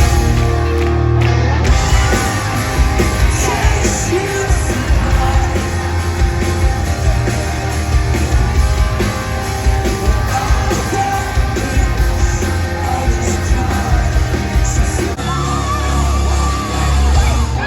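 Live rock band playing loudly in a large hall, with singing and yelling over it.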